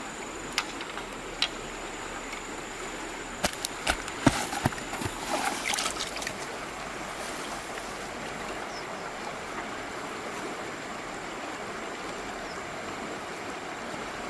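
Steady rush of flowing river water. A few sharp knocks fall in the first five seconds, and a short burst of splashing comes around five to six seconds in.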